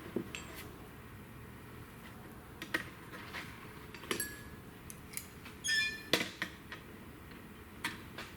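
Irregular metallic clicks and clinks of small hand tools and fasteners being handled while fitting fasteners to an aircraft propeller spinner, with one ringing clink a little past halfway.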